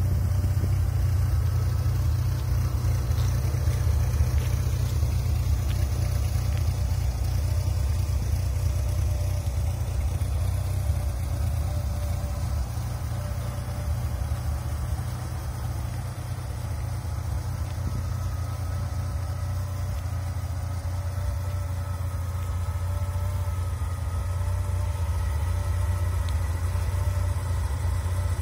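Dodge Viper RT/10's 8.0-litre V10 idling steadily.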